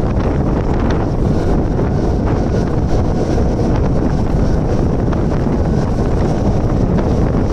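Wind rushing over the microphone at the open doorway of a Mumbai suburban electric train running at speed, over the steady rumble of its wheels on the track.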